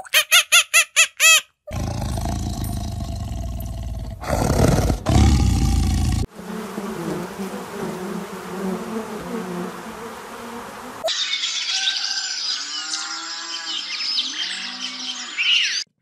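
A string of short animal-sound clips spliced together. Rapid, regular squeaky calls end abruptly, then come a low rumbling stretch and a louder low call. Next is the steady hum of honeybees swarming on an open comb, and after it a stretch of high chirping.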